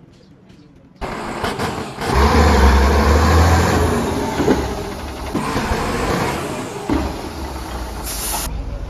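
Heavy diesel vehicle engine running loudly, coming in abruptly about a second in with a deep low drone, and a short hiss near the end.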